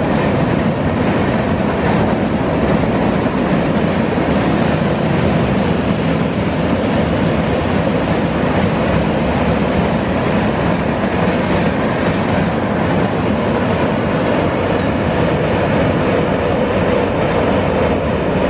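Passenger train coaches running at speed across a steel truss railway bridge: a steady, loud, even noise of wheels on the rails.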